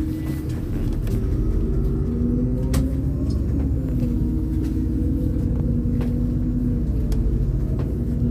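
MAZ-203 city bus heard from inside the passenger cabin while driving: a steady low engine and road rumble with a faint whining tone from the drivetrain, and a few sharp rattling clicks from the cabin.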